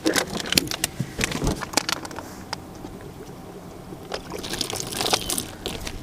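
A caught snake flopping and thrashing around on a boat: irregular slaps and knocks with some water sloshing.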